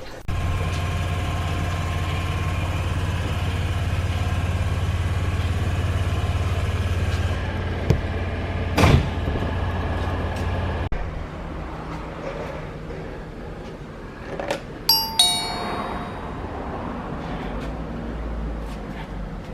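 Steady low mechanical hum of a running engine, shifting to a quieter hum about ten seconds in. About fifteen seconds in, a bright two-note falling chime rings once.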